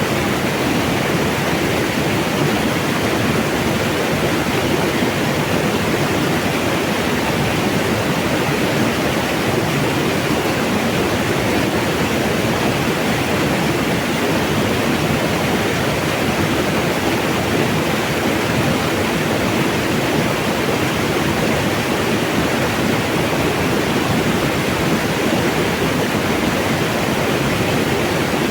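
Steady rushing of flowing mountain water, an even unbroken splash with no change in level.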